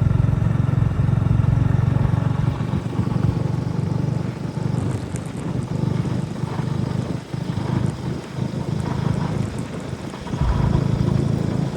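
An engine running, loud and low, steady at first and then unevenly rising and falling.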